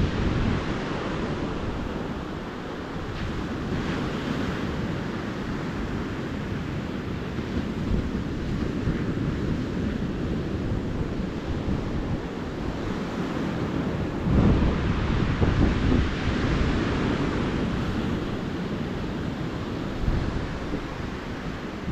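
Ocean surf washing onto a beach, a steady wash of breaking waves that swells louder about two-thirds of the way through. Wind buffets the microphone with low rumbles now and then.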